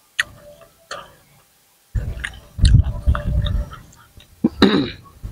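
Close-miked chewing of a mouthful of green papaya salad, loud and irregular, starting about two seconds in after a couple of short clicks.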